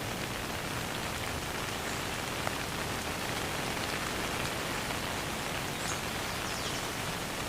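Steady rain falling, with a constant hiss and scattered individual drops landing, no thunder.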